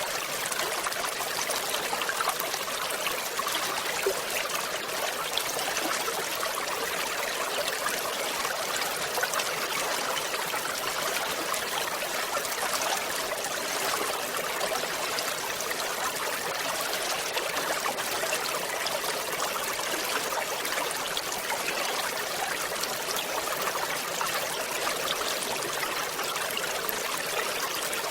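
Small waterfall or cascading stream: water splashing and trickling over rocks in a steady, even rush with little low rumble.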